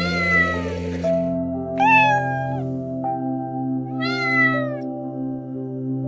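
A cat meowing three times, each meow under a second long with a bending, falling pitch, over soft background music of sustained notes.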